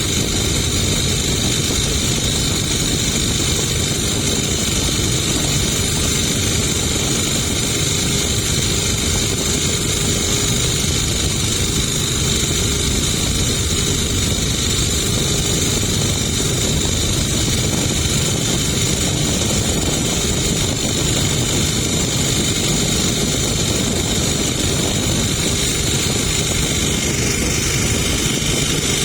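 Boat engine running steadily and loudly at constant speed, with a continuous low rumble and a steady high whine.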